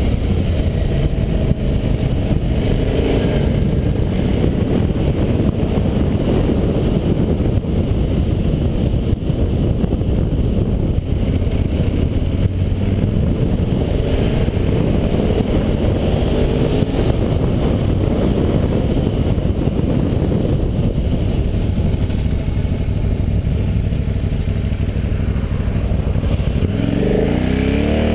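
KTM 990 SM Supermoto's V-twin engine running under way, with a heavy, steady low rumble. The engine note rises and falls with the throttle about halfway through and again near the end.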